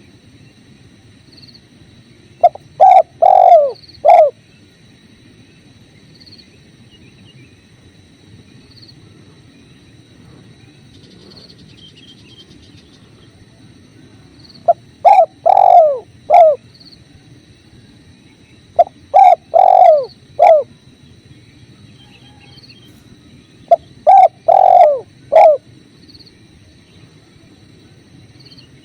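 Spotted dove (tekukur) cooing: four phrases of several low, rounded coos, each phrase lasting one to two seconds with long pauses between. Under them runs a steady low rush of flowing river water.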